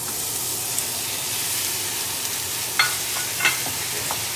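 Minced chicken breast hitting hot oil in a nonstick frying pan and sizzling loudly and steadily, the sizzle starting suddenly as the meat goes in. A wooden spoon stirs it, knocking sharply against the pan a couple of times about three seconds in.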